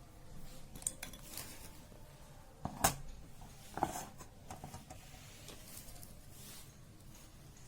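Light clicks, taps and rustles of small parts being handled while wiring a replacement LED panel into a bulb, with a sharper knock about three seconds in and another about a second later.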